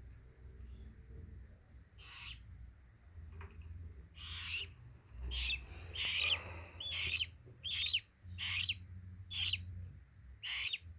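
Baby parakeet chicks giving short, high-pitched begging calls while being hand-fed. The calls come singly at first, then about one a second.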